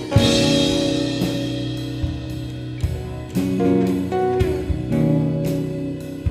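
Instrumental rock passage from a live trio: guitar and baritone guitar holding ringing chords over a drum kit, with a cymbal crash at the start that fades out and kick-drum hits through the rest. No singing.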